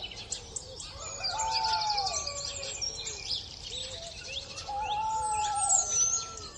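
Owl hooting: two long, slightly arched hoots, each about a second, over small birds chirping in the background.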